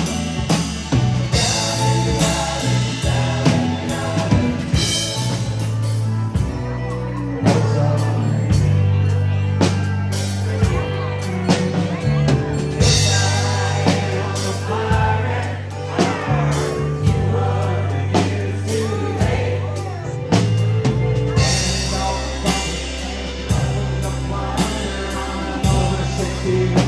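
Rock-style band music with a drum kit, bass and singing voices.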